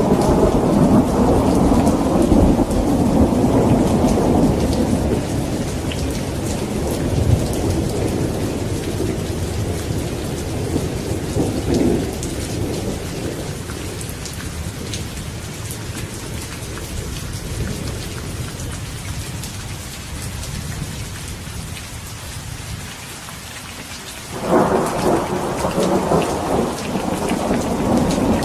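Steady rain with thunder: a long, low rumble of thunder dies away slowly over the first twenty seconds or so, and a fresh roll of thunder breaks in suddenly near the end.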